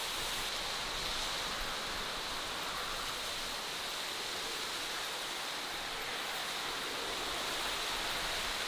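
Steady, even rushing noise of outdoor natural ambience, with a brighter hiss in the high range and no distinct events.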